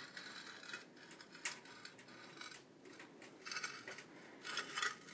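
Faint, short scrapes of a stove's sheet-metal damper plate being slid slowly shut, coming in several brief bursts a second or so apart.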